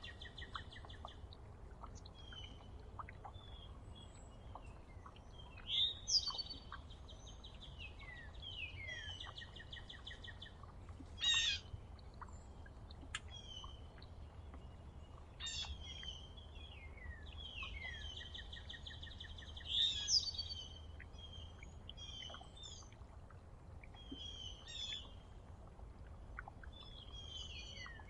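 Songbirds singing outdoors, a song repeated again and again: quick downward-sweeping notes followed by a rapid high trill, with several songs overlapping and a few louder ones close by.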